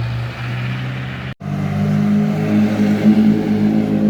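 Classic car engine running steadily; about a second and a half in the sound cuts off abruptly, and a louder engine picks up.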